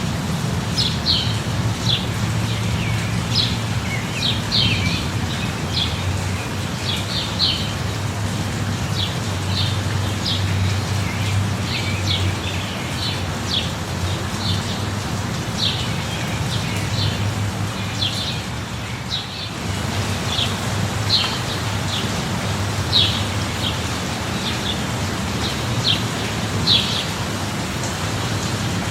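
Steady rain falling, with a small bird chirping repeatedly over it, short high chirps about once or twice a second.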